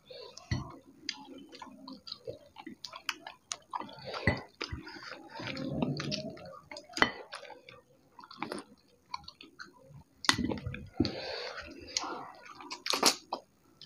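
Two people chewing chicken roast and picking it off the bone with their fingers. Many short clicks of mouth and fingers, with a few longer stretches of chewing noise in the middle and near the end.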